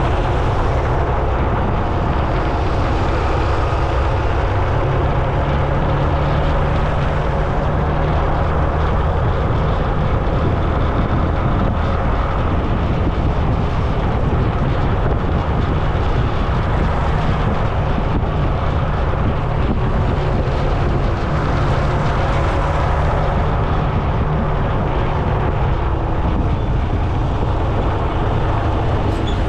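Steady wind rush on the microphone and road noise from riding along a road, with a low steady hum underneath.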